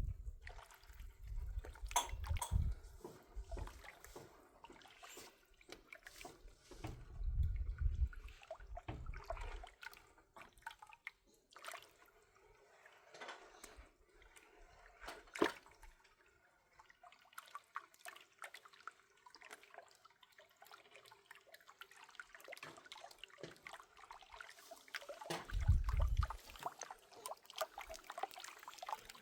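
Irregular wet sloshing and dripping with many scattered clicks and knocks, broken by a few low rumbling thumps near the start, around a quarter of the way in, and near the end.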